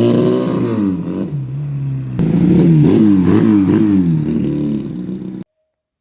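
Twin-cylinder 250 cc motorcycle engine in a Monkey-style minibike being revved: one rev falls away to idle, then about four quick throttle blips follow, and the sound fades and cuts off suddenly near the end.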